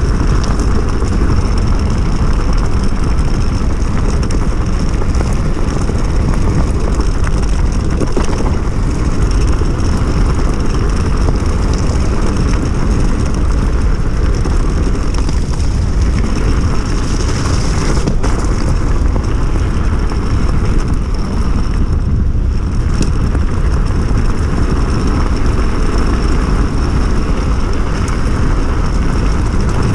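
Wind buffeting the microphone during a ride on a 72 V electric enduro bike, with a steady thin high whine from its 3000 W hub motor drive. The rumble dips briefly a little past the middle.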